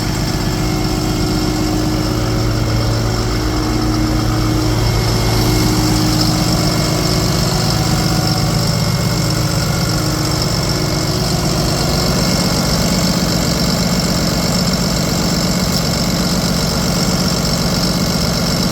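Cummins diesel engine of a 2010 Freightliner M2 truck idling steadily.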